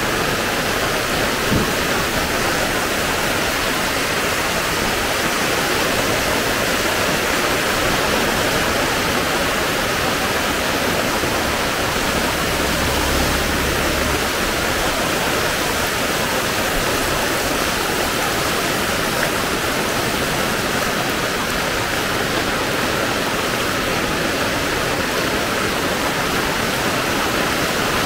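Heavy rain falling steadily, a dense, even hiss. There is a short knock about a second and a half in and a brief low rumble near the middle.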